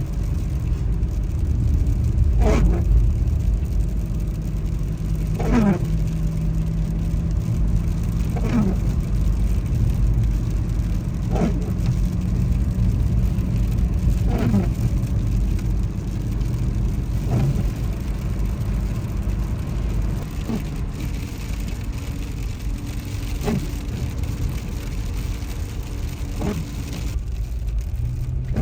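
Steady road and engine rumble inside a moving car, with the windshield wipers making a short sweep about every three seconds.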